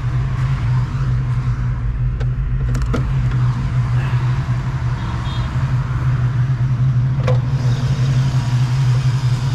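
1993 Ford Mustang Cobra's 5.0-litre V8 idling steadily, with a few sharp clicks as the hood is unlatched and raised.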